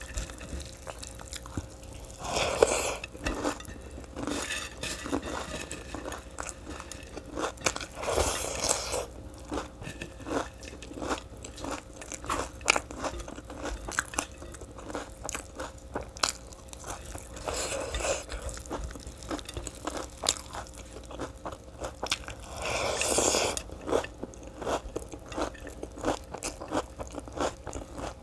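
Close-miked chewing and crunching of food by a person eating, with dense small clicks and a few louder swells every several seconds.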